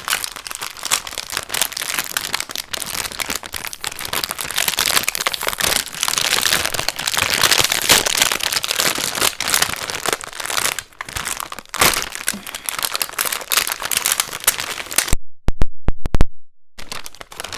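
Plastic packaging of mochi rice cakes crinkling and crackling as it is handled and opened close to the microphone. The sound cuts to silence for about a second and a half, about fifteen seconds in.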